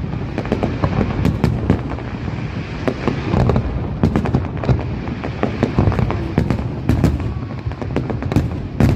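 Fireworks salute: rapid, irregular bangs of bursting shells, several a second, over a continuous rumble and crackle.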